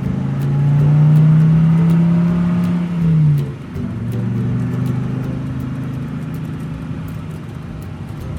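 A toy vehicle's engine sound revving to a steady high note, then dropping off sharply about three and a half seconds in and settling into a lower, steady run.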